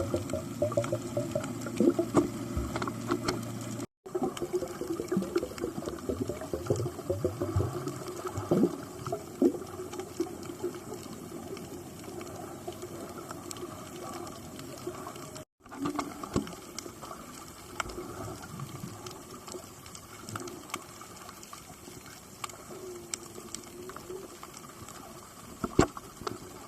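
Underwater sound of the sea, with water movement and scattered sharp clicks over a low murky hum; it cuts out briefly twice.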